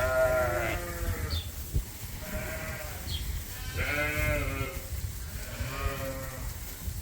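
Sheep bleating: four separate calls, each under a second long, about a second apart and differing in pitch.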